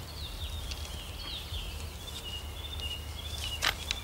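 Small birds chirping, short high twitters repeating over a steady low hum, with a sharp knock near the end.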